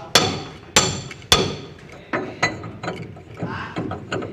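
Hammer blows on steel with a metallic ring, from work to dismantle a truck's differential: three hard strikes about half a second apart, then a run of lighter, quicker taps.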